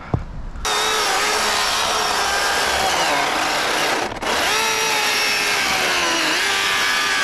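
Electric chainsaw running at speed, its whine sagging in pitch as it bites into wood. It stops for a moment about four seconds in, then runs again.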